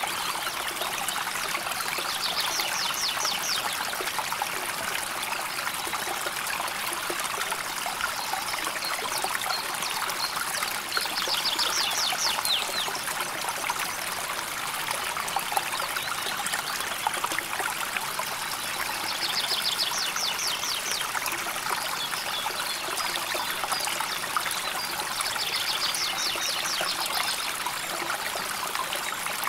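A river flowing steadily, trickling and babbling over stones. A high, rapid trill cuts in over the water four times, about every eight seconds.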